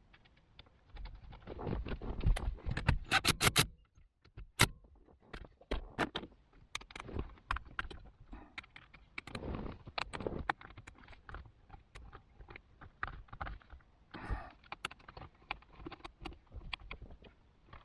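Small metal and plastic parts and hand tools being handled: irregular clicks, taps and light scraping, with a quick run of sharp clicks about three seconds in.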